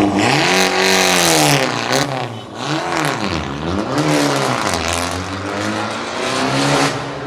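Romeo Ferraris-tuned 300 hp Fiat 500 Abarth engine revved hard three times, the revs climbing and falling with a loud exhaust. It then runs lower before climbing again near the end.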